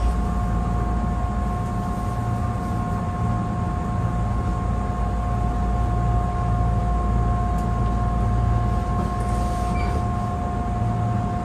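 Tobu 8000-series commuter train standing with its doors open, its onboard electrical equipment giving a steady two-note whine over a low hum.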